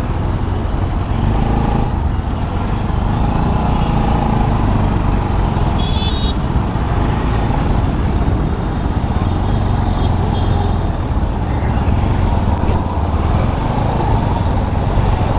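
Motorcycle riding at steady road speed: continuous engine and road noise with no change in pace. A short high beep sounds about six seconds in.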